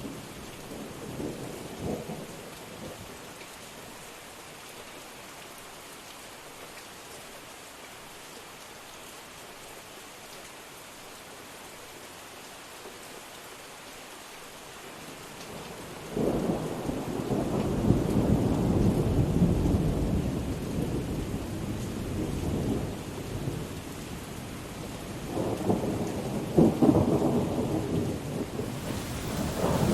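Steady rain hissing through a thunderstorm, with rolls of thunder. The loudest roll starts suddenly past the middle and rumbles for several seconds, and another follows near the end.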